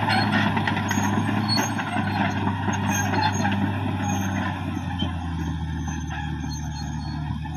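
Cat D6R XL bulldozer's diesel engine running under work with a clatter of knocks and clicks. About two-thirds of the way through, the engine note drops lower and the clatter thins out as the machine eases off.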